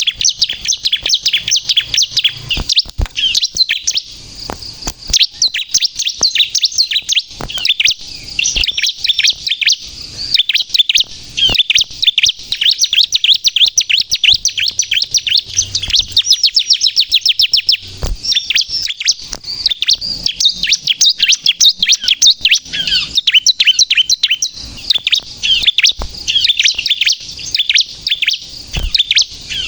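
Bar-winged prinia (ciblek, crystal colour variety) in full song: a fast, continuous string of high, sharp chirping notes, many per second, broken by a few short pauses, with occasional sharp clicks.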